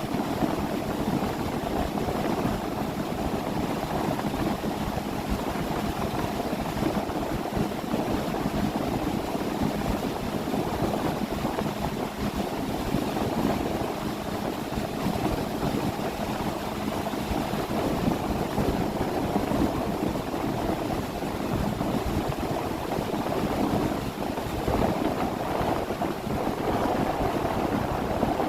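A 30 ft motorboat under way: its engine running steadily under a rush of water and rumble, with a faint steady hum that fades out about twelve seconds in.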